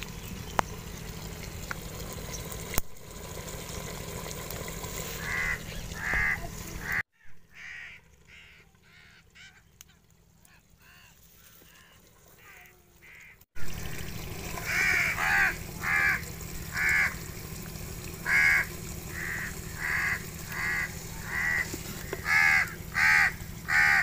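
A bird calling over and over in short calls, about one or two a second, over a steady low background noise. Between about 7 and 13 seconds in, everything drops to a faint level.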